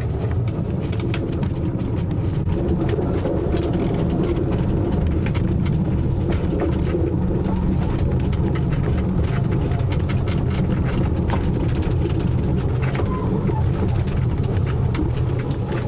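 Narrow-gauge tourist train running along the line: a steady low rumble with scattered clicks and rattles.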